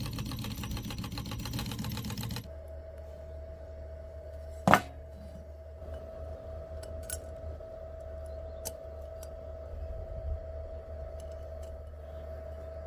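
A small motor-driven mechanism clattering rapidly and evenly for about two seconds, then a steady whine over a low hum with a sharp click about five seconds in and a few lighter ticks after.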